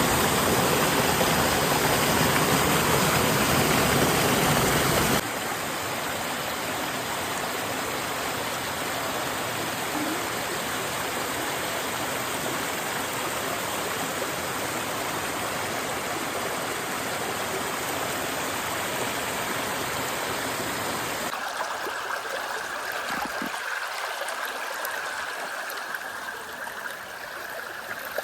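Waterfalls and streams rushing steadily across three clips. The sound cuts abruptly to a quieter stretch of water about five seconds in, then to a thinner, lighter flow of water about twenty-one seconds in.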